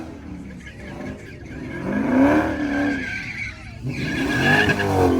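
A car spinning in a burnout pit: the engine revs up and falls back twice while the tyres squeal.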